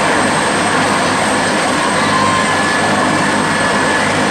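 Helicopter running close by: a loud, steady rush of engine and rotor noise.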